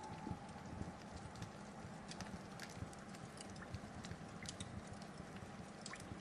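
Wood fire crackling: a steady low rumble and hiss with frequent sharp pops and snaps.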